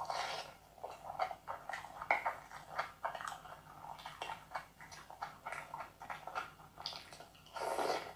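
Close-miked chewing and lip-smacking of a mouthful of chicken biryani rice and chicken: wet smacks and clicks in quick, irregular succession, with a longer noisy breath near the end.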